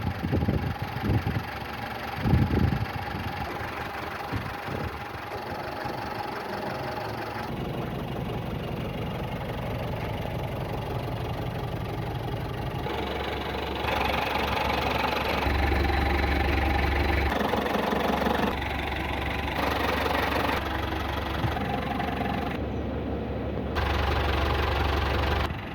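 Tata SFC 407 cargo truck's diesel engine running, with a few sharp knocks in the first three seconds. Its sound then shifts in steps several times, louder and deeper from about a quarter of the way through.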